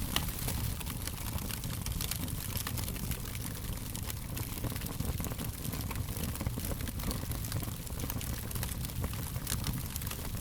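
Wood fire crackling: frequent small pops and snaps, irregular and scattered, over a steady low rumble.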